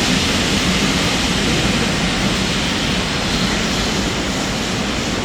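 Steam locomotive blowing off steam: a loud, steady roaring hiss with a low rumble beneath it.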